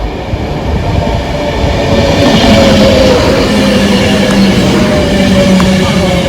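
Electric express train passing through the station at speed without stopping. The noise swells over the first couple of seconds into a loud, steady rush with a steady hum.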